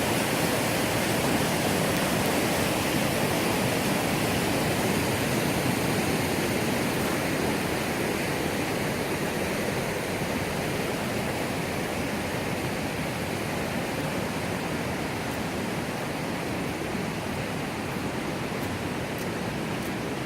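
Rushing river water, a steady even rush of flowing rapids that grows slightly fainter over the last half.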